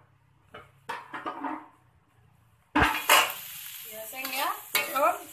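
Shrimp, chillies and garlic frying in a wok, stirred with a metal spatula. After a few light clinks, loud sizzling comes in suddenly nearly three seconds in, with the spatula scraping across the wok.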